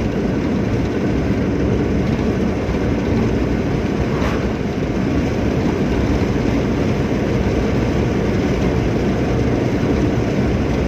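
Hyundai Santro car driving at steady speed: a continuous low rumble of engine and road noise.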